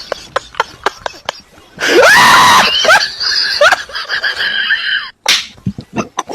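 A loud scream about two seconds in, followed by several shorter rising squeals, with sharp clicks and knocks before it.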